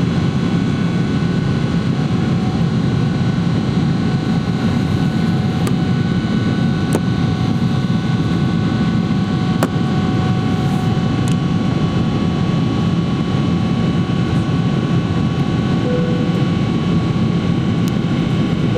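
Boeing 777-300ER's GE90-115B turbofan engines and the rush of air after takeoff: a steady, even low roar with faint steady whines above it.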